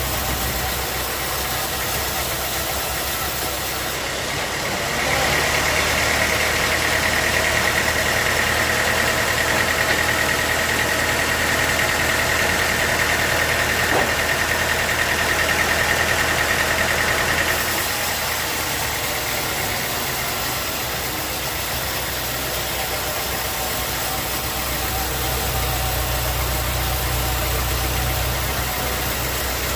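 Sawmill machinery running steadily. From about five seconds in until about seventeen seconds it grows louder, with a steady high whine as the saw cuts through the teak log, then it drops back to running unloaded.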